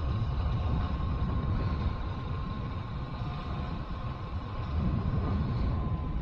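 A vehicle running along a road, its low engine and road rumble steady, with a thin steady whine that drops slightly near the end.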